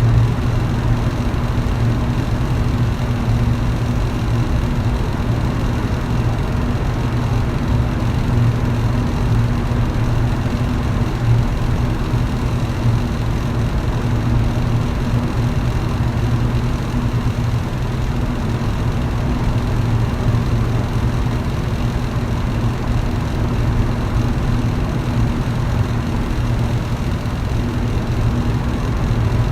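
Electric fan running steadily: a constant hum with the rush of moving air.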